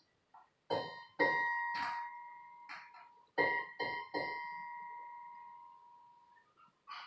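A series of sharp knocks. Two of them leave a clear, bell-like ringing tone, at the same pitch both times, that fades away over a couple of seconds.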